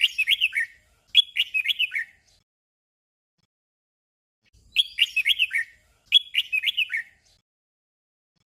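Red-whiskered bulbul song: a short phrase of quick, bright whistled notes sung twice back to back (a 'double'), then the same pair again about four and a half seconds in.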